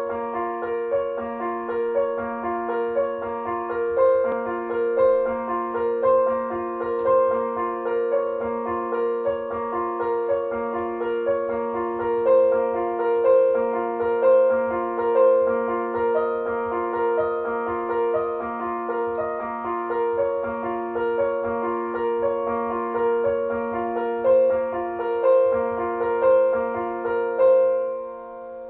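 Slow, gentle solo piano music: single notes about a second apart over held tones, fading out near the end.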